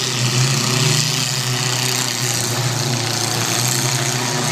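Demolition derby cars' engines running steadily as the cars manoeuvre in the arena.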